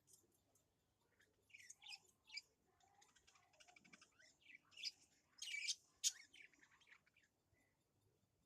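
Birds chirping faintly in a string of short, high calls, busiest and loudest a little past the middle.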